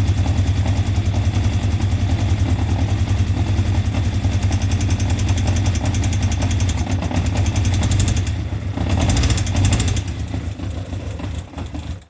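An imported vehicle's engine running steadily with a rhythmic pulse, carrying an abnormal noise. It is briefly louder about nine seconds in, then the sound cuts off abruptly.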